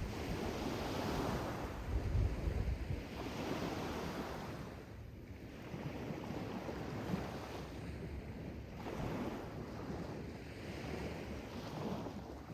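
Sea waves washing in and drawing back, swelling and easing every few seconds, with wind rumbling on the microphone.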